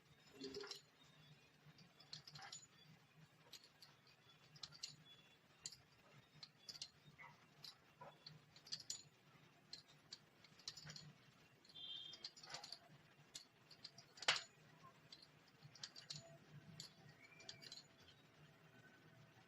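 Faint, irregular clicks and taps of a cutter cutting thinly rolled nimki dough into shapes, with one sharper tap about fourteen seconds in.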